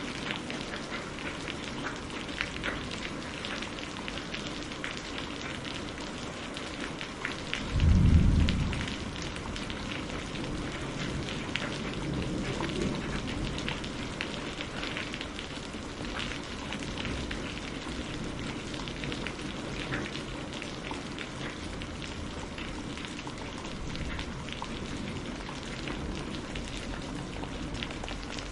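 Steady rain falling, with a dense patter of individual drops. About a quarter of the way in, a single heavy clap of thunder breaks through. A softer rumble follows a few seconds later.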